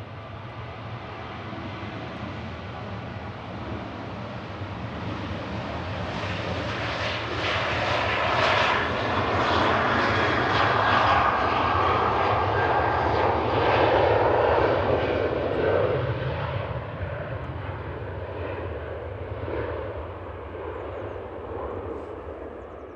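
Jet airliner's engines passing: the sound swells steadily to a peak about a third of the way in, holds for several seconds, then fades away.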